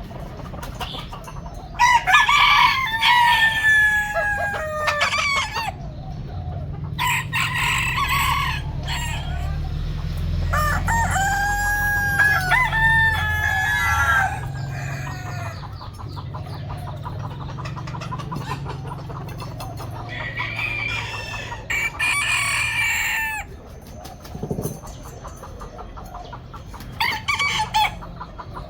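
Roosters crowing about five times, each a drawn-out pitched call, with chickens clucking in between over a steady low hum.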